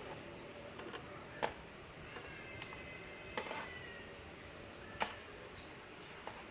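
Sparse sharp clinks and knocks of a bakso seller's utensils and bowls, four separate strikes over a few seconds, with a brief faint ringing tone in the middle.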